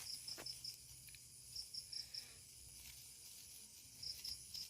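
Cricket chirping faintly at night, short chirps of four or five quick high pulses that come about every two seconds.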